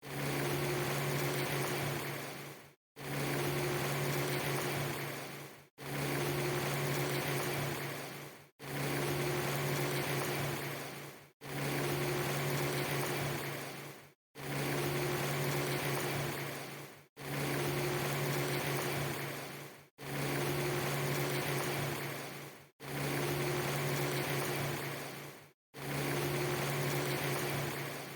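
A badly looped ambience track: a steady hiss with a low hum that fades out and cuts to a moment of silence about every three seconds, then starts again unchanged.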